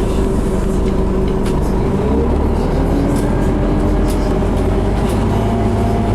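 Scania CN270UB city bus under way, heard from on board: the engine and drivetrain hum steadily, the pitch shifting a little about two seconds in, with light clicks and rattles over it.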